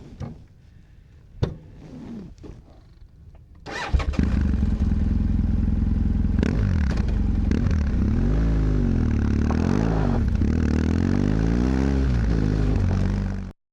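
BMW F 800 GS twin-cylinder engine starting about four seconds in, after a few faint clicks and knocks, then idling with a few short blips of the throttle that rise and fall in pitch. The sound cuts off suddenly near the end.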